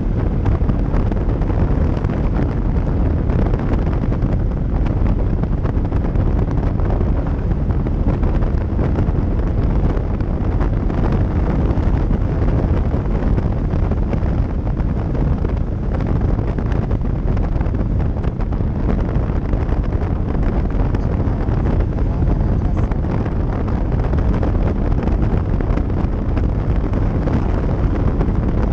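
Steady rush of wind over the microphone on a moving Kawasaki Vulcan 900 motorcycle, its V-twin engine running underneath at a constant pace. The noise is loud and even throughout, heaviest in the low end.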